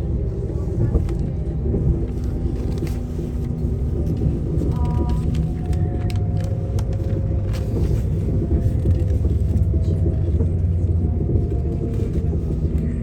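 Northern passenger train running on the rails, heard from inside the carriage as a steady low rumble with a faint drifting whine, the rumble growing a little stronger midway.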